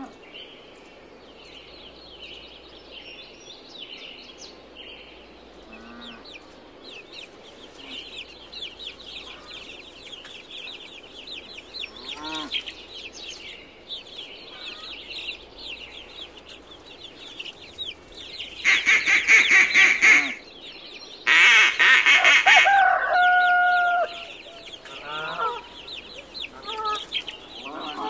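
Goslings peeping, a dense, continuous high chatter. About two-thirds of the way through come two much louder, drawn-out bird calls, the second ending in a held, slightly falling note.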